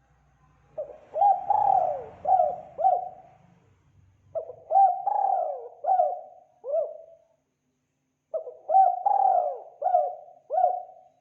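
Spotted dove (tekukur) cooing: three phrases of four or five coos each, a few seconds apart.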